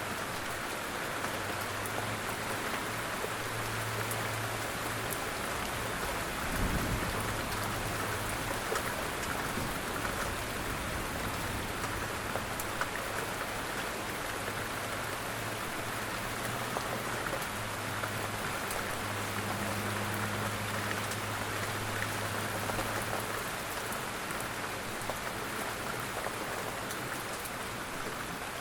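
Steady rain falling: an even hiss of rain with scattered fine drop ticks. A brief low thump about seven seconds in.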